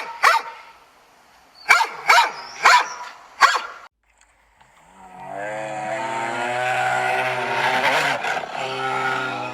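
A dog barking, four sharp barks about half a second apart. After a short break, a long, steady low-pitched sound begins from a different source and runs on through the rest.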